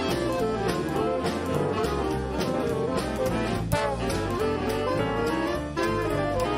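A student jazz band playing an upbeat number, with saxophones and brass over a steady bass and drums.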